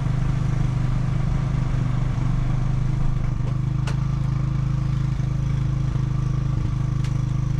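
ATV engine running steadily, with a couple of light clicks over it.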